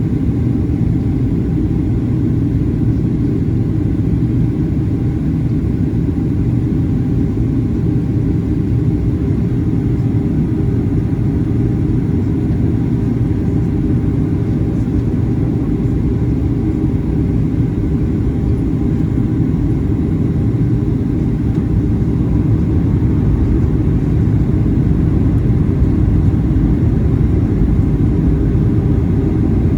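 Boeing 737-800 cabin noise in flight: a steady low rumble of the CFM56 engines and airflow, with faint steady tones above it. It grows slightly louder in the last few seconds.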